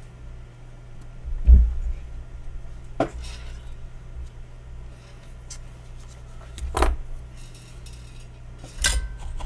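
Clinks and knocks of metal tools and the circuit board being handled on a workbench, a few separate strikes with the loudest about one and a half seconds in, over a steady low hum.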